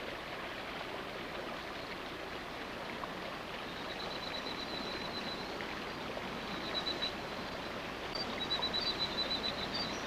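Steady rush of running water from a rainforest stream. From about four seconds in, a rapid high-pitched pulsed trill comes in short bursts several times over it.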